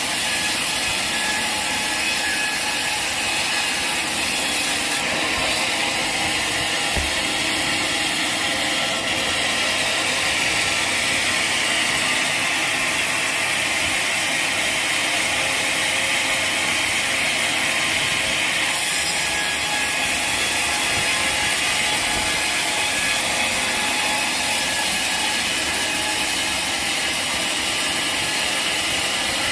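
Sawmill saw and machinery running steadily, the noise swelling slightly in the middle.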